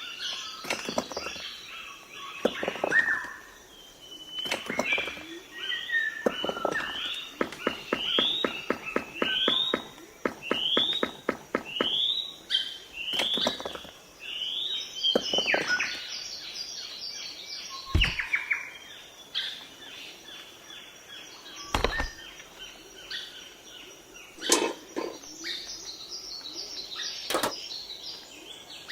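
Birds chirping over and over in short rising calls, with a rapid rattling trill through the middle. Two dull thumps come near the two-thirds mark, a few seconds apart.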